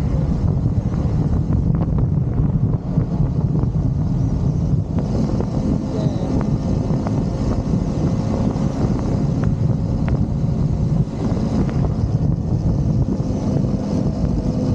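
Motorcycle engine running at a steady cruising speed, with wind noise on the microphone.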